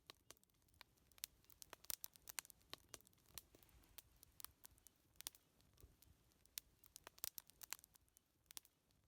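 Wood fire crackling quietly, with irregular sharp pops and snaps over a faint low hiss.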